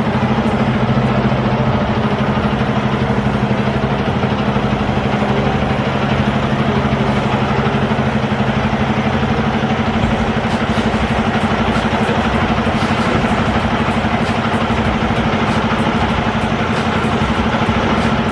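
Semi-truck's diesel engine running with a steady drone and road or engine noise; a low steady hum in it drops away about halfway through.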